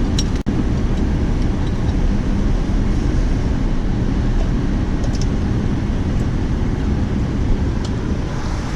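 Steady low rumble of a vehicle in motion, with wind on the microphone. The sound drops out briefly about half a second in.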